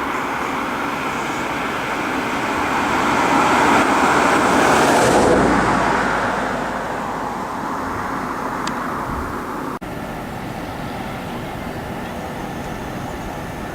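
Road traffic noise: a steady hiss of passing cars, with one vehicle swelling louder about four to five seconds in and fading away.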